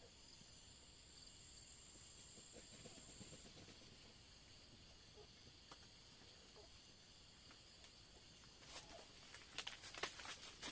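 Faint steady high-pitched trilling of night insects. From about nine seconds in, a run of irregular crackling and rustling clicks comes in and grows louder.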